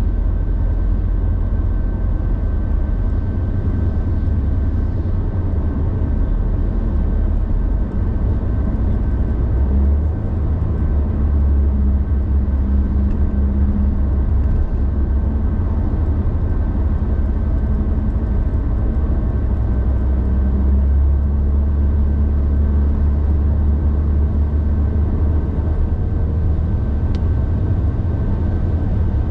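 Car driving along: a steady low rumble of engine and tyres on the road, with a faint steady high tone over it.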